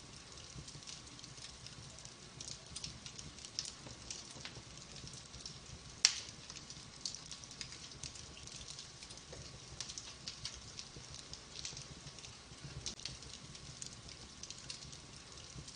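Wood fire in a fireplace crackling, with many small irregular pops and one sharp, much louder pop about six seconds in, over a low steady rumble.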